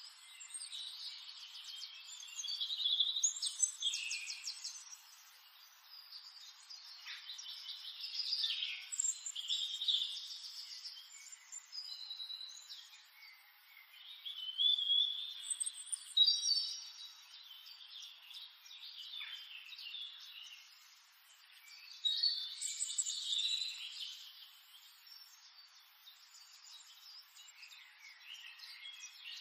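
Small birds chirping and trilling, high-pitched calls coming in bursts with quieter gaps between.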